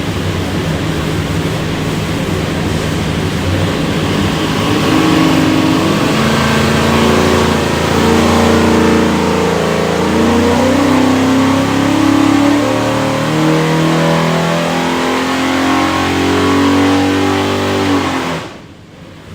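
A 582 cubic inch carbureted big-block Chevy V8 running a full-throttle dyno pull. The engine revs up under load, climbing in pitch with a brief dip about halfway, then cuts back suddenly near the end as the pull finishes. This run made about 720 hp and 756 lb-ft, and it checks out as healthy.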